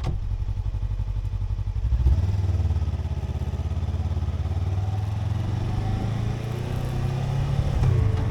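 Suzuki V-Strom 250 motorcycle engine running while riding, a steady low drone that gets louder about two seconds in.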